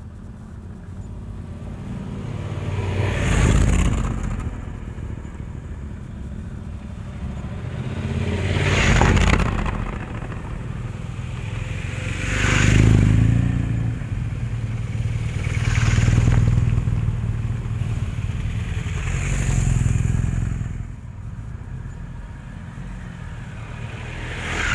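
Adventure motorcycles running on an off-road trail, a steady low engine note that swells and eases about six times.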